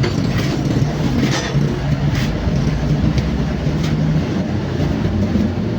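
Mini excavator's diesel engine running steadily under work, with a few short knocks about a second apart.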